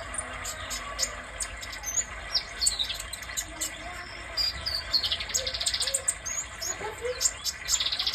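Red-breasted sunbird (kolibri dada merah) singing: a string of sharp high chirps and short downward-slurred notes, breaking twice into a fast buzzy trill, once about five seconds in and again near the end.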